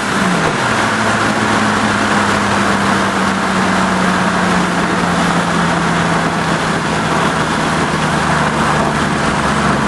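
Turbocharged 2JZ-GTE inline-six in a pickup, heard from inside the cab: its note drops at the start as the throttle comes off after a run, then holds a steady drone that sinks slowly in pitch under loud road and wind noise.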